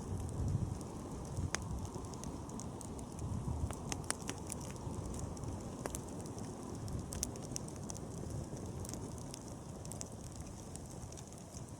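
Wood bonfire burning: a steady low rush of flame with frequent sharp, irregular crackles and pops from the burning wood.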